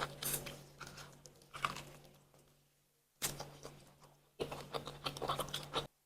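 Close-miked eating sounds: irregular bursts of chewing and tearing of salt-baked chicken, with wet clicks and crackles, over a steady low hum.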